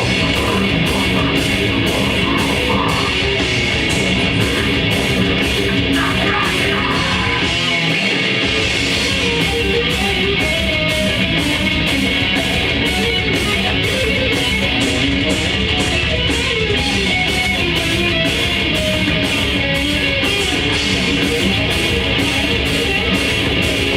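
Grindcore band playing live and loud: heavily distorted electric guitars and bass over drums, with cymbals struck in a fast, steady rhythm. The low end drops out briefly about eight seconds in.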